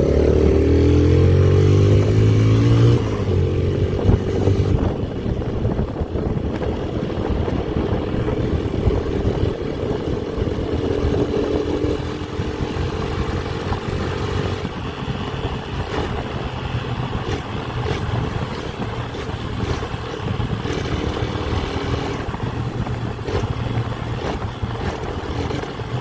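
Motorcycle being ridden: the engine note slides down over the first three seconds, then steady engine and road noise.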